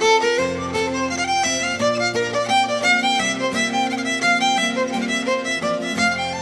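Fiddle playing a fast tune of quick notes over a steady lower accompaniment.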